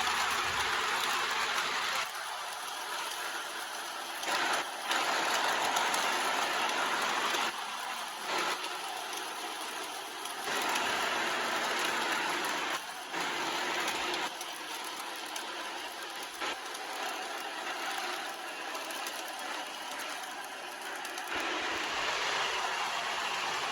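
MTH Propane Turbine model locomotive running at speed on its track, pulling a long freight train: a steady rushing noise that jumps abruptly in level several times.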